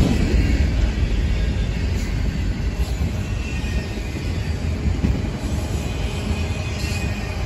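Freight train cars rolling past on the rails: a steady low rumble of steel wheels on track, easing slightly as the cars move away, with a faint high wheel squeal now and then.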